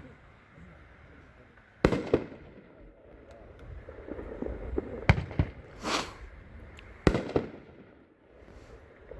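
Winda 'Mother of All Bombs' consumer firework cake firing: loud bangs in pairs a third of a second apart, three pairs about every two and a half seconds, with a spell of fizzing crackle in between.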